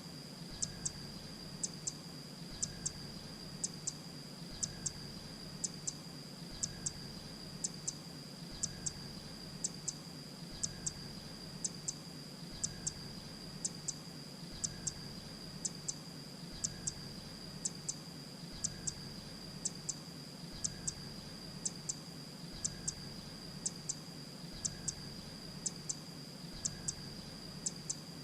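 Grey-breasted prinia calling: short, sharp, high notes in quick pairs, repeating in an even pattern about every two seconds, over a steady high-pitched whine.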